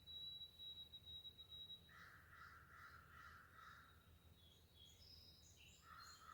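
Faint wild birds calling. A long, steady, high thin whistle fades out about two seconds in, followed by a harsh rasping call of about two seconds. Short high chirps follow, and another harsh call begins near the end.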